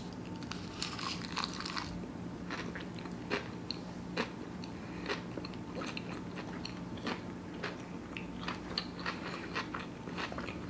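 A mouthful of vegan sushi bake wrapped in roasted seaweed (nori) being bitten and chewed, with many irregular small crisp crunches and wet mouth clicks.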